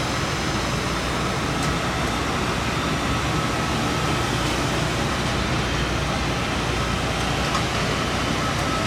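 Steady airport apron noise from aircraft and ground equipment: a constant rumble and hiss with a faint high whine and a few light clicks.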